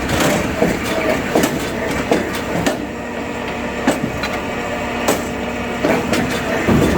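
A machine runs steadily while oak firewood knocks and cracks, with sharp knocks every second or so and a steady hum in the middle stretch.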